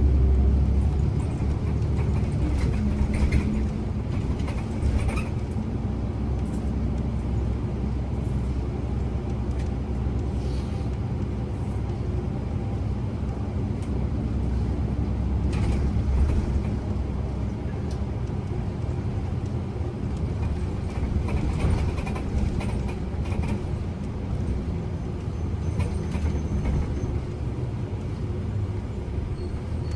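Interior of a Kyoto City bus: the engine hums with a steady low rumble and road noise, broken by a few short clicks and knocks.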